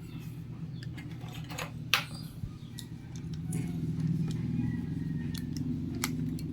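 Light metallic clicks and taps of small parts and hand tools being handled, with one sharper click about two seconds in, over a steady low hum.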